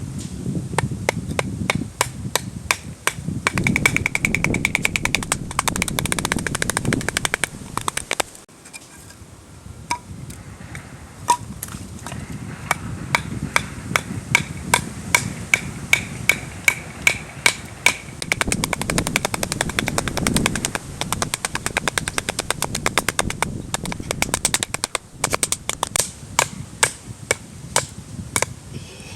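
A rapid series of sharp knocks, about two to three a second, that pauses briefly about a third of the way through and then resumes, over a low rumble.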